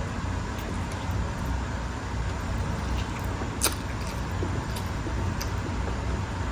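Quiet eating sounds over a steady low background rumble: a few soft clicks, with one sharper click about three and a half seconds in.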